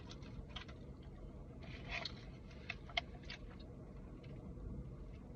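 Close-up eating sounds: scattered small clicks and smacks of chewing, with a sharper click about three seconds in, over a steady low rumble.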